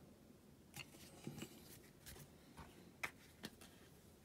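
Near silence with a few faint, light clicks and taps from small parts being handled while a rivet is glued into a die-cast toy van body.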